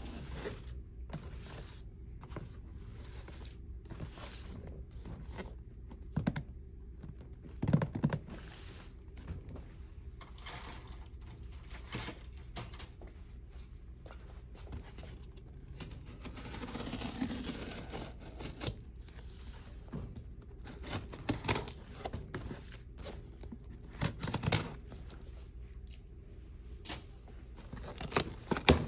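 Packaging being handled and opened: a string of small clicks, taps and scrapes, a few louder knocks, and a stretch of rustling or tearing about halfway through.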